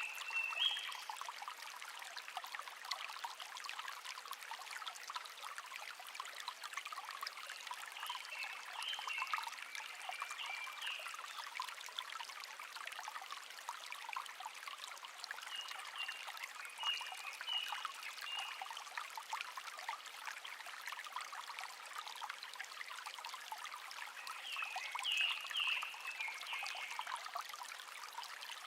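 A small stream trickling and babbling steadily. A songbird sings short chirping phrases in four bouts, spaced roughly eight seconds apart.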